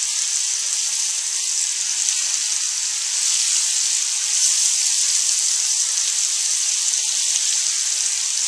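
Diced chicken and chopped onions sizzling in hot oil in a frying pan as the chicken is sealed: a steady hiss that grows a little louder about three seconds in.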